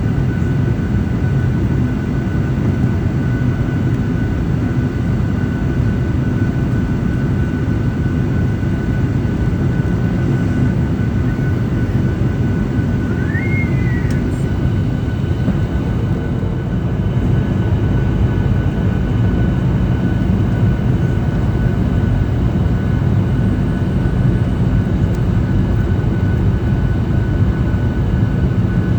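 Cabin noise of a Boeing 737-800 on approach: a steady, loud low rumble from its CFM56-7B turbofans and the airflow, with a thin steady whine on top. A short rising chirp sounds once about halfway through.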